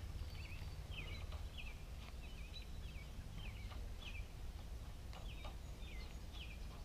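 A bird calling over and over, a short falling chirp about twice a second, with a low steady rumble underneath.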